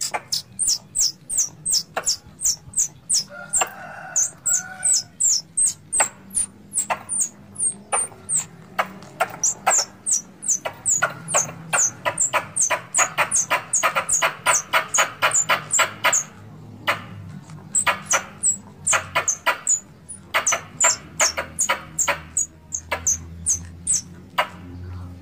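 Squirrel call used to lure squirrels for hunting: a long series of sharp, high chirps, about three a second. The chirps quicken in the middle and break off briefly about two-thirds of the way through before resuming.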